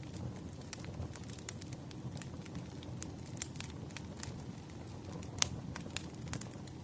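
Campfire burning with irregular crackles and pops over a steady low rumble, one sharper pop about five and a half seconds in.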